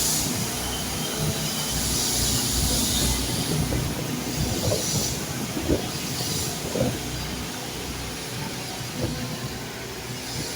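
Train running, a steady rumble with high-pitched noise that swells and fades about three times, and a few short knocks.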